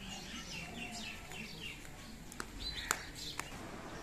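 Birds chirping: a quick run of short, falling notes, with three sharp clicks in the second half.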